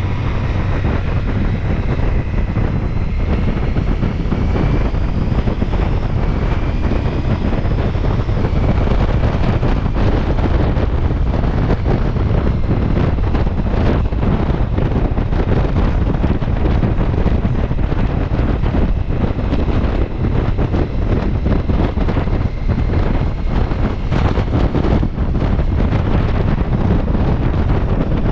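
Wind noise buffeting the microphone of a Ducati Multistrada V4 S while it is ridden at speed, with the engine faintly audible underneath, its note rising and falling in roughly the first ten seconds.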